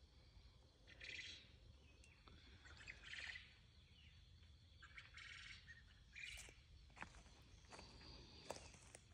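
Faint bird calls: short, high chirping phrases repeating every one to two seconds, with a few soft clicks late on.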